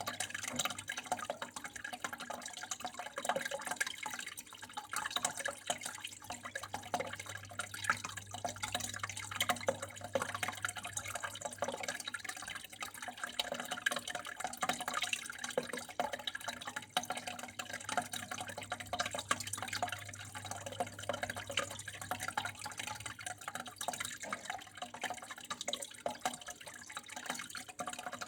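Water flowing and splashing continuously, with many small irregular drips and patters and a steady low hum underneath.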